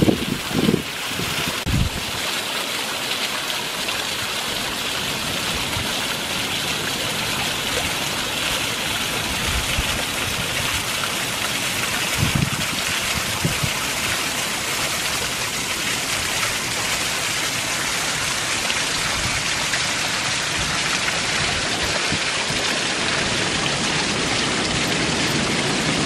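Rain-swollen runoff water rushing steadily downhill and over a small falls, a constant even hiss. A few soft low thumps break in near the start and about twelve seconds in.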